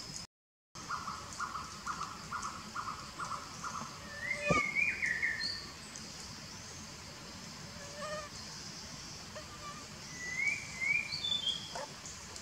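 Wild birds calling in the tree canopy: a run of short even notes at about four a second early on, then a louder wavering call in the middle, and a few short rising chirps near the end.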